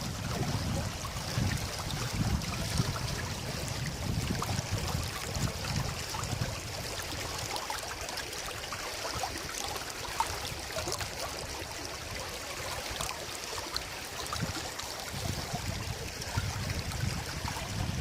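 River water flowing after heavy rain, a steady rushing hiss, with wind buffeting the microphone in the first several seconds and again near the end.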